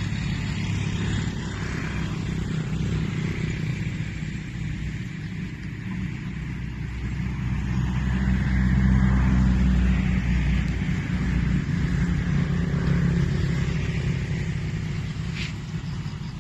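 A motor vehicle's engine running steadily, a low rumble that swells to its loudest around the middle and eases off toward the end.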